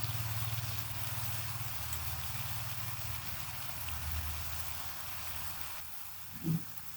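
Chicken wings sizzling and crackling in a pan, over a low steady hum that fades near the end. A short low thump about six and a half seconds in.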